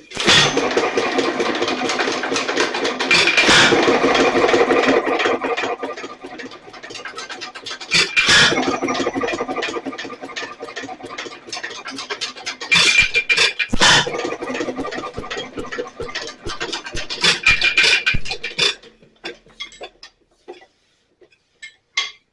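Nelson Little Jumbo 1 1/2 HP single-cylinder hit-and-miss engine running with a steady mechanical clatter, firing with sharp, loud strokes at uneven gaps of one to five seconds. The governor has a worn bushing with about a quarter inch of play, and the owner says it is not working right. The engine sound drops away near the end.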